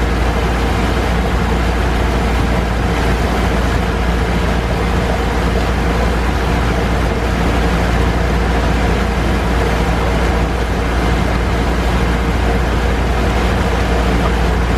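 Steady engine drone with a heavy low rumble and an unchanging pitch, heard from aboard a moving vehicle.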